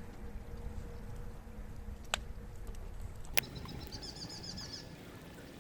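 Wood fire in a fire pit giving two sharp pops, about two and three and a half seconds in, over a steady low noise, while a small bird sings a quick trill of high chirps just after the second pop.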